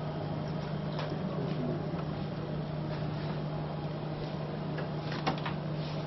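Steady low hum of machinery or ventilation, with a faint click about a second in and a few more faint clicks near the end.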